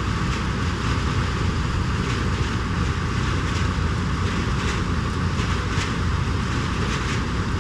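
Heavy farm machinery running steadily at working speed, with a light rhythmic clatter about once a second.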